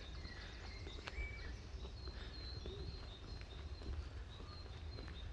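Small birds chirping and calling, with short high notes repeating over and over, above a steady low rumble.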